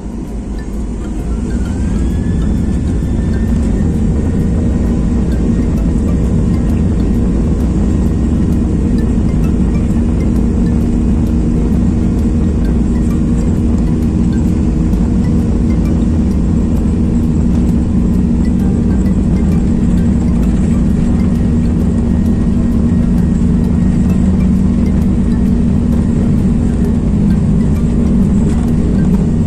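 A vehicle running steadily, picking up speed in the first couple of seconds with a whine that rises and then holds one pitch.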